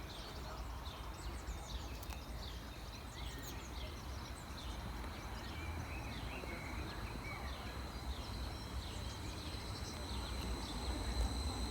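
Outdoor ambience of small birds singing and chirping, over a low rumble. A steady high-pitched whine comes in about two-thirds of the way through and the level rises slightly toward the end.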